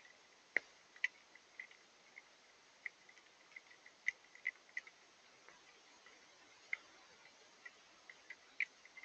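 Rain and wet snow dripping: irregular small taps, one to a few each second, some louder than others, over a faint steady hiss.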